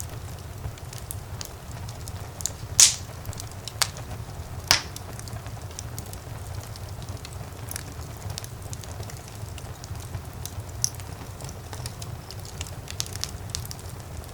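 Wood fire crackling in a fireplace: a steady low rumble of flame with scattered small snaps and pops, and three louder pops about three to five seconds in.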